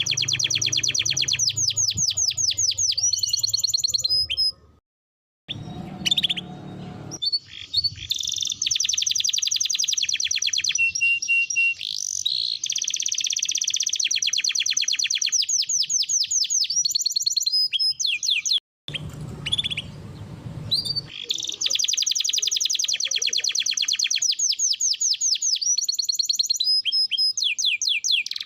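Canary singing long phrases of very fast, rolling trills and rapid repeated notes. The song breaks off abruptly about five seconds in and again near nineteen seconds, then resumes.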